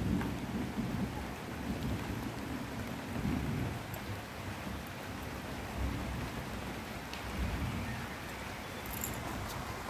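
Heavy rain pouring steadily, with a low rumble underneath that swells and fades.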